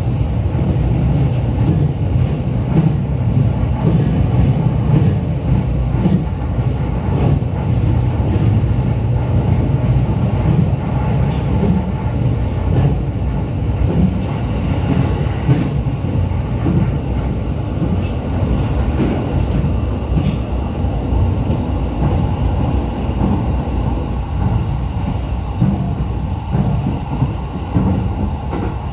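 Running noise inside a JR East E531 series electric train car: a steady, loud low rumble of the wheels and running gear on the rails.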